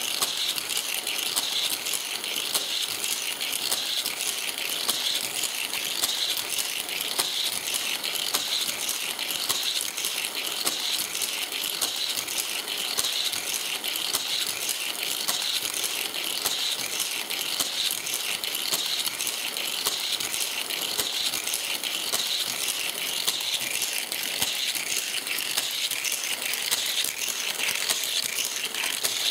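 Hot Wheels plastic toy track set running with cars on it: a steady mechanical clicking and rattling with a regular pulse a little faster than once a second.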